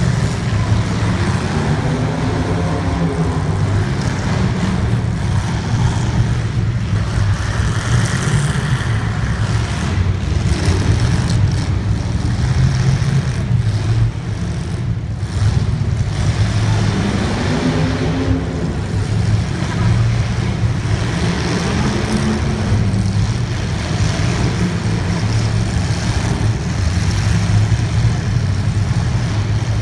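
Race car engines running hard on the track. The engine pitch rises and falls every few seconds as the cars accelerate and lift through the corners.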